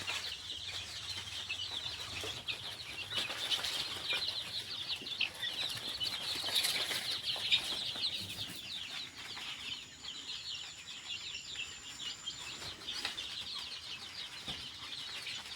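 A crowd of chicks peeping continuously, many short, high, falling peeps overlapping, with a few brief scuffles around the middle.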